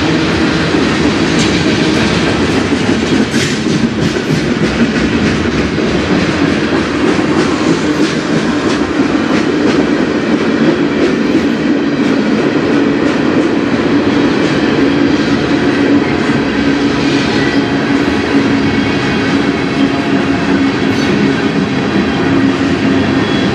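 A manifest freight train's cars (covered hoppers, a flatcar, tank cars) rolling past: a loud, steady rumble and rattle of steel wheels on rail. Scattered clicks come from the wheels crossing rail joints, more of them in the first few seconds.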